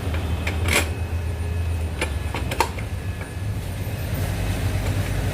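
Royal Enfield Bullet single-cylinder engine running steadily at idle, with three sharp clicks in the first three seconds.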